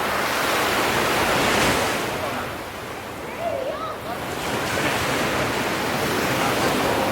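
Ocean surf washing in: a steady rush of breaking waves that eases about two and a half seconds in and builds again.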